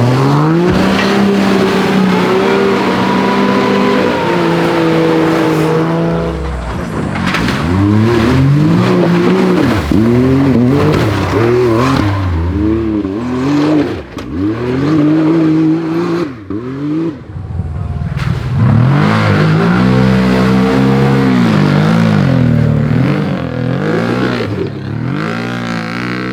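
Off-road 4x4 competition vehicle's engine revved hard over and over, its pitch climbing and falling every second or two as the driver works the throttle, briefly easing off about two-thirds of the way through.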